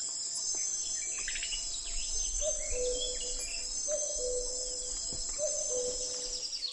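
Outdoor nature ambience: insects trill steadily and high, with scattered short bird chirps. From about two and a half seconds in, a low two-note call, the second note lower, repeats about every second and a half.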